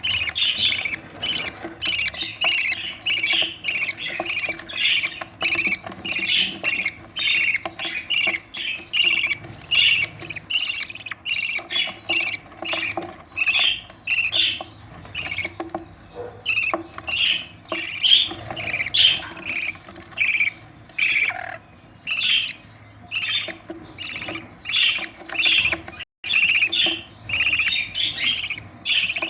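Budgerigar chicks begging to be fed: short squawking calls repeated without pause, about two to three a second.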